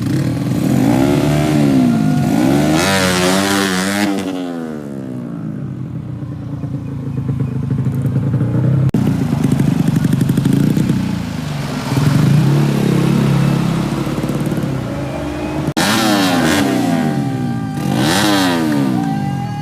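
Racing motorcycle engines revving hard and going past, their pitch sweeping up and down. There is one loud pass a few seconds in and another near the end.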